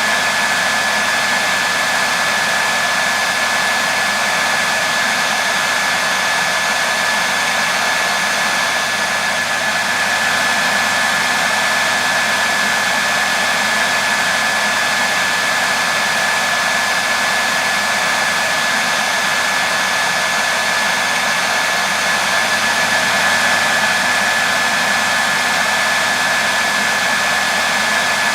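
Hair dryer running steadily on one setting: an even rushing hiss of blown air with a thin steady whine from the motor and fan.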